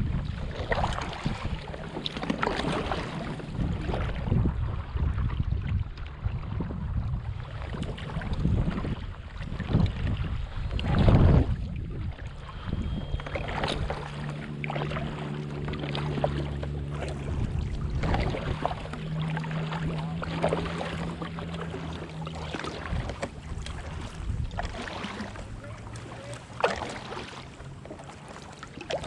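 Wind on the microphone and water noise around a kayak on a river, with scattered knocks and splashes. A low steady hum sits under it for about ten seconds in the middle.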